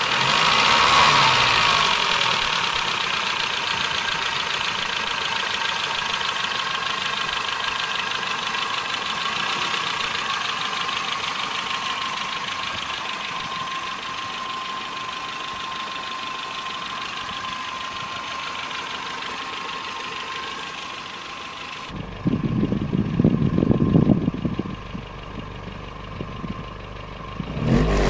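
1984 Nissan N12's 1.5-litre E15S carbureted four-cylinder engine idling steadily with a fast, light ticking, from valves that need adjustment. About three quarters of the way through, the sound suddenly turns dull and low irregular thumps take over.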